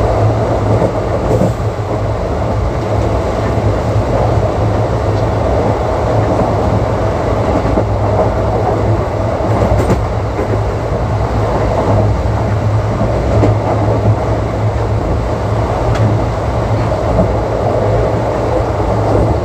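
ICF passenger coach running at speed on broad-gauge track: a steady rumble of wheels on rails with a little clatter, heard from on board the train.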